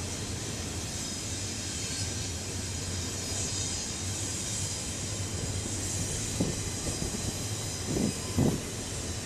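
Loaded double-stack intermodal well cars of a BNSF freight train rolling past, a steady rumble of steel wheels on rail with a high hiss. A few knocks come near the end, the loudest two close together about eight seconds in.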